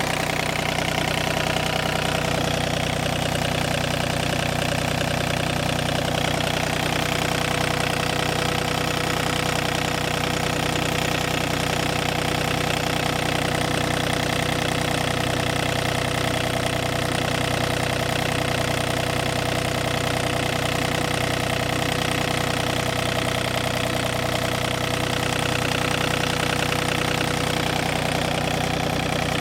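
Yanmar 3TNE84 three-cylinder diesel engine of a John Deere 3235B fairway mower running steadily at a constant speed.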